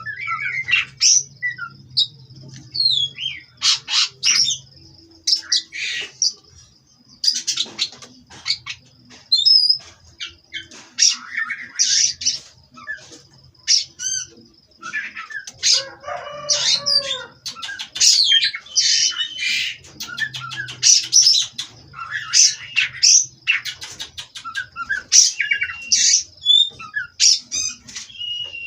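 Oriental magpie-robin (kacer) song: a long run of varied whistles, chirps and harsh notes in quick bursts with short gaps between phrases, over a thin steady high whine. About halfway through comes a lower, coarser call.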